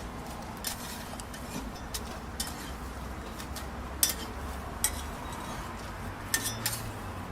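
Metal utensils clinking against dishes and pans in a string of sharp, irregular clinks, over a steady low hum.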